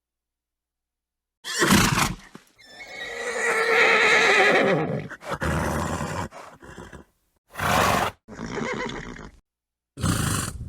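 Horse sounds cut together with silent gaps between them: a short snort, then a long whinny of about two and a half seconds with a wavering pitch, followed by several short snorts and breathy calls.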